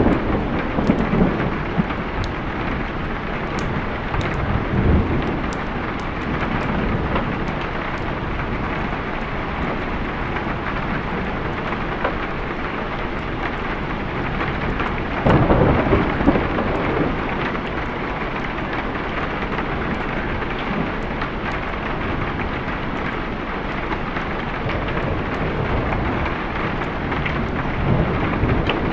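Steady heavy rain with rolls of thunder rumbling over it, the strongest roll about halfway through.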